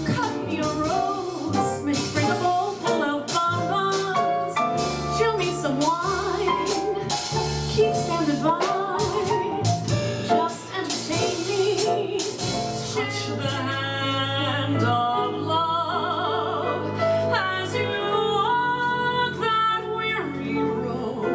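Small jazz combo of piano, bass and drums playing live, with frequent drum and cymbal strokes in the first half and a wordless melodic line over it; from about halfway the playing turns to steadier held notes.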